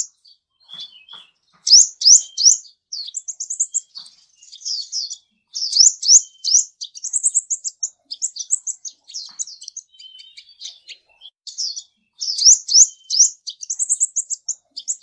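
A small bird chirping: quick runs of short, high, rising notes, several notes a second, in bursts broken by short pauses.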